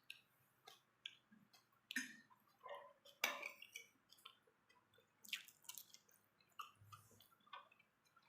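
A person chewing pork with wet mouth smacks and clicks, in short irregular bursts, the loudest about three and five seconds in.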